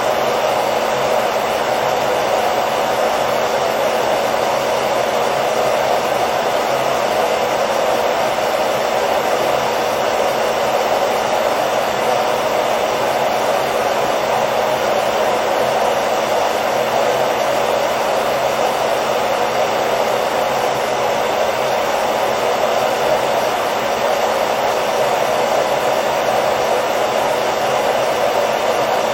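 Hair dryer running continuously, a steady rushing blow of air and motor noise with no change in level, played as white noise for lulling a baby to sleep.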